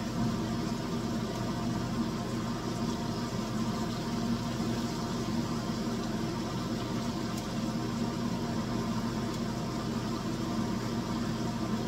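Breaded green tomato slices shallow-frying in hot oil in a stainless steel skillet, sizzling steadily, with a steady low hum underneath.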